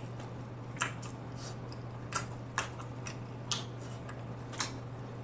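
Chewing a crunchy hard-shell taco: sharp, irregular crunches about once or twice a second, over a steady low hum.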